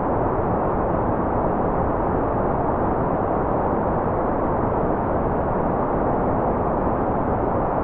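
Steady, unchanging white noise: an even hiss with no events or variation, more weight in the low and middle range than in the treble, so it sounds rather dull than bright.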